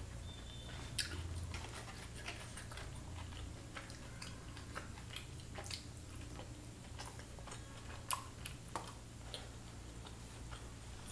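Close-miked eating sounds: a mouthful of food bitten and chewed, with irregular wet clicks and smacks of the mouth.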